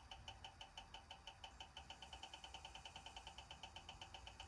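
Faint, rapid, even ticking of about ten ticks a second over a thin steady whine, otherwise near silence.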